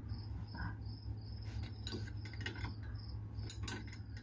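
A cricket chirping steadily, about three to four short high chirps a second, over a low steady hum, with a few light metallic clicks in the second half.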